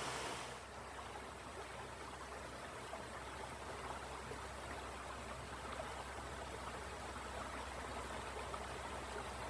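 Creek water flowing, a steady, fairly low rushing.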